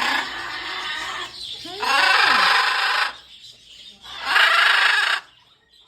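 Parrots screeching in a pet store: three long, harsh screeches, each about a second, one after another, with a short falling call between the first two.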